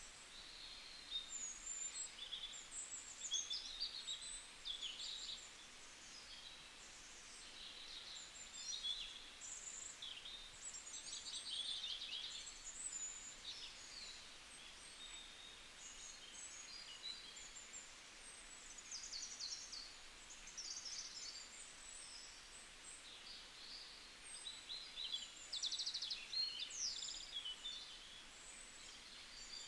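Small birds chirping and twittering: many short, high calls and quick trills overlapping, over a steady low hiss.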